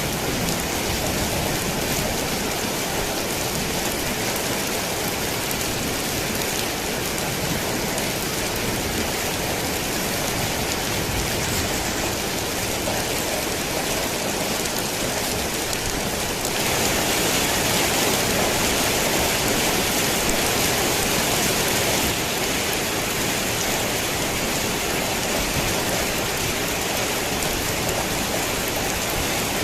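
Steady heavy rain pattering on a tin roof. It grows louder for about five seconds a little past halfway, then settles back.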